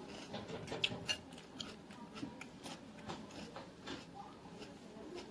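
A person chewing raw shrimp: irregular wet mouth clicks and smacks, several a second.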